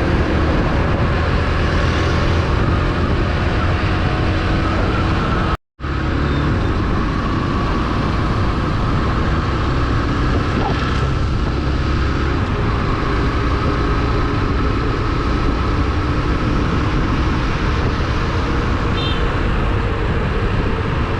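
Steady, loud road and wind noise of a motorcycle ride on a GoPro microphone, with a heavy low rumble. It cuts out completely for a moment about five and a half seconds in.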